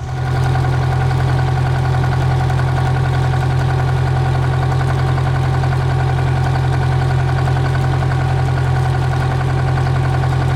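Machinery running steadily at idle: a loud, even low hum with a fast fine pulse and a few steady higher tones, starting abruptly at the outset.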